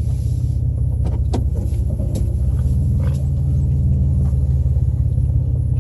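Vehicle engine and road rumble heard from inside the cab while driving slowly and turning around, a steady low drone with a few light clicks and rattles.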